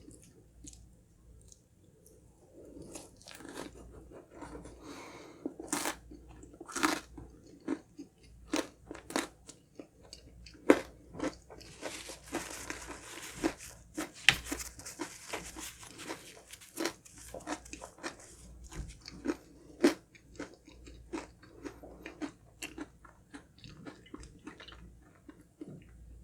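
Close-up chewing and crunching of honey crunch cake, its crunchy honeycomb topping cracking between the teeth in many irregular crunches that are densest about halfway through.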